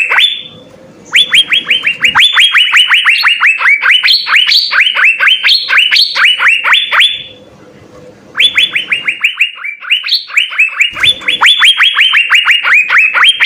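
Asian fairy-bluebird (cucak biru) singing: long runs of rapid, clear notes, each sliding downward, several a second, broken by a short pause about seven seconds in and again near ten seconds.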